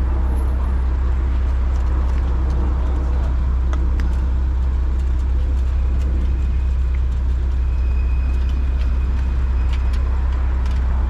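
Steady low rumble of wind across the microphone on a moving bicycle, mixed with city road traffic.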